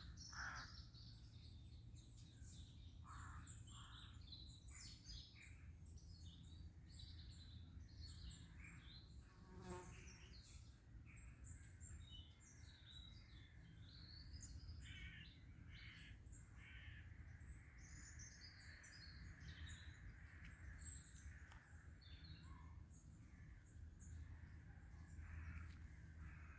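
Faint woodland birdsong: many small birds chirping and twittering in short calls throughout, over a steady low background rumble.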